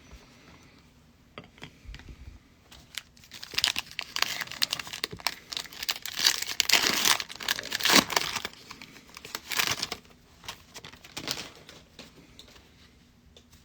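Foil trading-card pack wrapper being torn open and crinkled by hand, a dense run of crackling from a few seconds in until about ten seconds, with a couple of short crinkles after.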